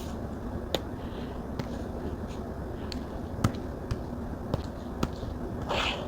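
Stylus pen tip tapping on a Samsung Galaxy Tab's glass screen, with sharp ticks at irregular intervals about every half second and a short scratchy pen stroke near the end, over a steady low background hiss.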